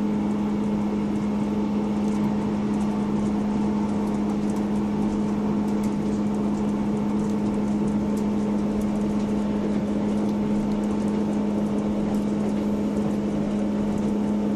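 Class 158 diesel multiple unit running at a steady speed, with a constant low drone and a fainter higher whine over rumbling running noise.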